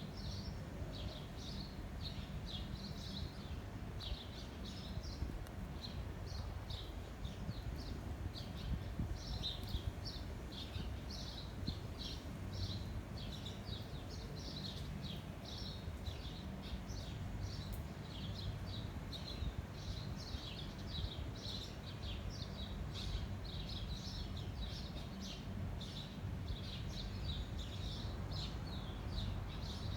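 A flock of small birds chirping constantly, many short overlapping chirps, over a low rumble of wind on the microphone.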